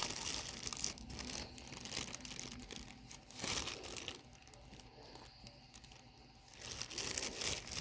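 Crinkling and rustling as craft materials are handled close by, in quick crackly bursts that ease off for a couple of seconds in the middle and pick up again near the end.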